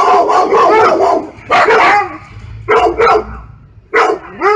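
Dog barking loudly and repeatedly: a quick run of barks at the start, then single barks about a second apart, and another run beginning near the end.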